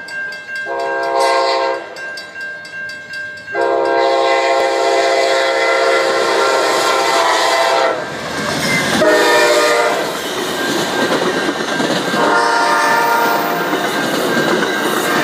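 Amtrak Wolverine passenger train sounding its multi-tone horn in four blasts: a short one, a long one, a short one and a last short one. From about halfway through, the loud rumble and clatter of the train's wheels on the rails builds as it passes.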